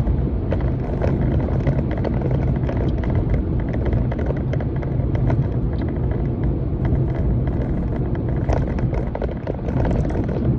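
Steady low rumble inside a car, with the engine running, and many small clicks and rustles over it.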